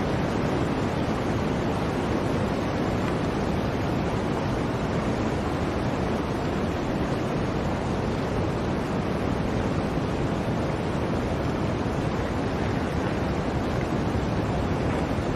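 Blizzard wind blowing steadily: a dense, even rush with no gusts, breaks or separate events.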